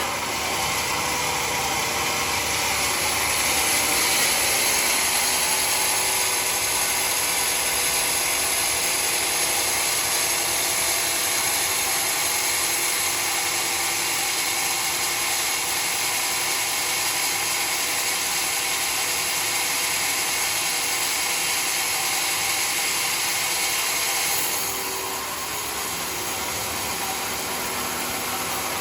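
Sawmill cutting through a mahogany log: a steady, loud hiss of the blade in the wood over the drive motor, easing a little about 24 seconds in.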